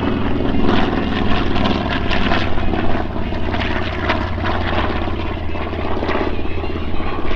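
Piston engine of a propeller-driven World War II warbird running loud and steady in flight, a low hum with a rough, crackling edge.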